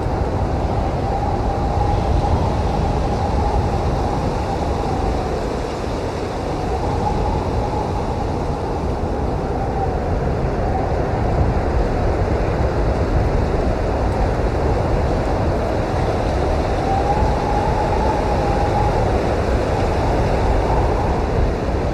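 Strong blizzard wind blowing steadily with a deep rumble, and a faint whistle that swells and fades every few seconds as gusts pass.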